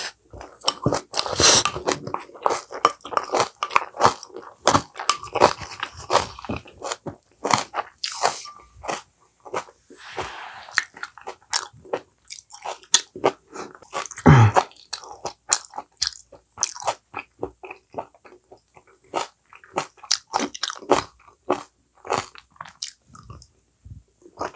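A person chewing and crunching mouthfuls of food: many short crisp crunches and mouth sounds, with a brief low falling vocal sound about fourteen seconds in.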